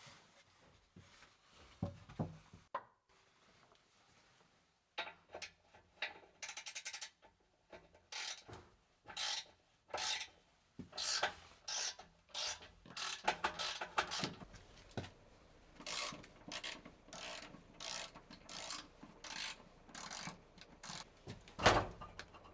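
Runs of short rasping strokes from a hand tool, about one to two a second, starting a few seconds in, with a sharper knock near the end.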